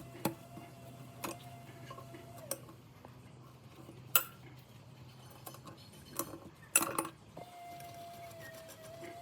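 Metal parts and hand tools clinking and knocking, handled during the strip-down of an old benchtop jigsaw: scattered sharp clicks and clanks a second or so apart, the loudest a double clank near the middle. A faint steady hum and thin tone sit underneath.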